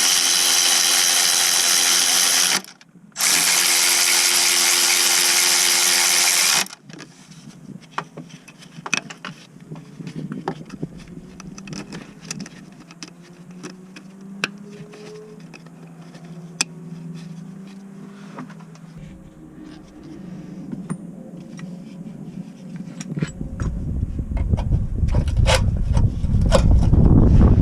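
A cordless power tool running in two bursts of about three seconds each, with a short pause between, as fasteners are worked on during the clutch job. Scattered light clicks and knocks of hand work follow, and a low rumble builds near the end.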